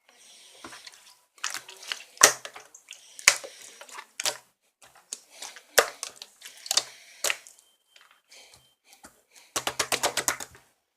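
Translucent slime being squeezed and pressed by hand, making sharp, wet pops and clicks, with a quick run of about ten pops near the end.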